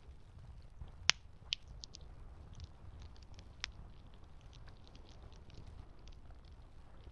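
Campfire crackling: a steady scatter of small sharp pops and snaps, with a loud pop about a second in and two more shortly after and halfway through, over a low steady rumble.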